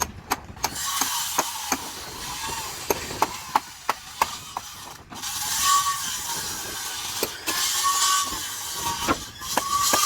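Woodworking tool running on wood, its pitch swelling and sagging a few times and pausing briefly about halfway, with repeated sharp knocks throughout.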